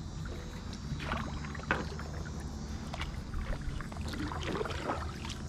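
Kayak paddle dipping and splashing in the water in a few uneven strokes, over a steady low rumble.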